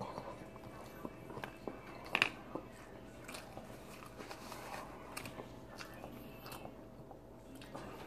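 A person chewing a mouthful of sushi roll, with small wet mouth clicks and a sharper click about two seconds in.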